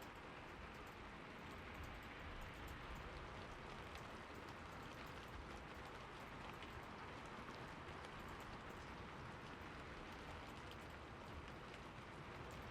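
Soft, steady rain, with many small drops ticking through the hiss.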